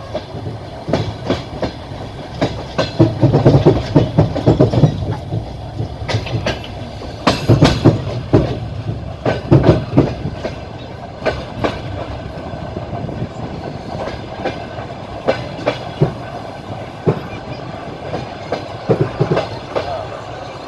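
Train wheels clattering over rail joints, heard from inside a moving train: a steady rumble with clusters of sharp knocks recurring every couple of seconds.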